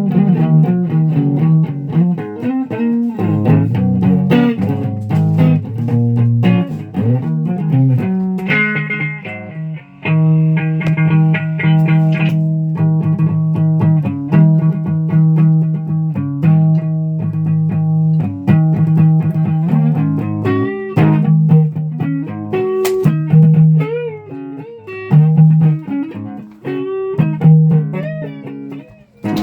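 Guitar being played: a riff of plucked notes over a held low note, with bent, wavering notes in the second half.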